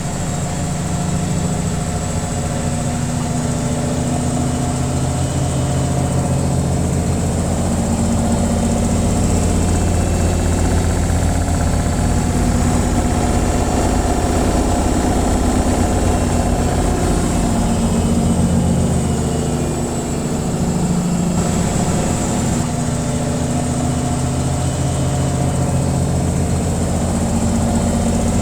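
Washing machine in its spin cycle: a steady motor and drum hum with vibration, dipping slightly about two-thirds of the way through before settling again.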